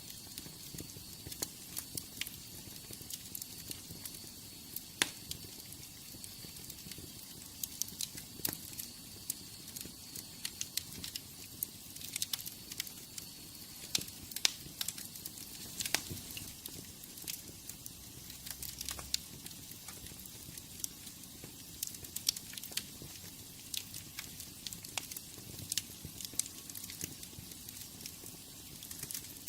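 Wood fire burning in a fireplace, crackling with frequent sharp pops and snaps over a steady hiss. A faint high whistle runs under it and stops about eleven seconds in.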